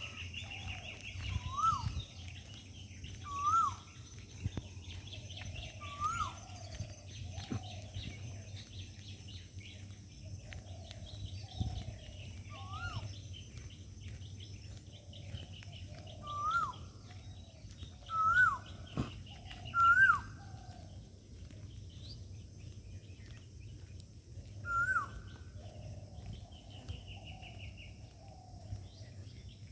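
Birds calling in the open. One bird repeats a loud, short, upward-hooked whistled note every couple of seconds. Softer, lower falling notes and a brief buzzy trill sound in between.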